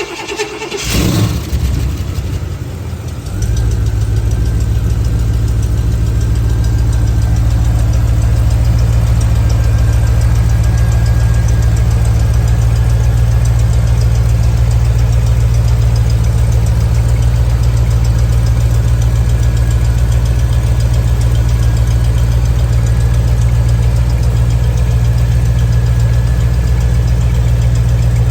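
Engine cold-starting: a rough first few seconds as it catches, then about three seconds in it settles into a steady idle that runs unchanged.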